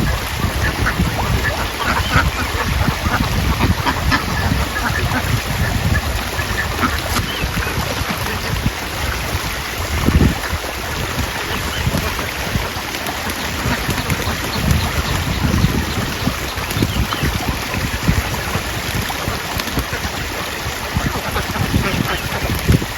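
A large flock of farmed ducks quacking together in a continuous jumble of calls, over a steady low rumble.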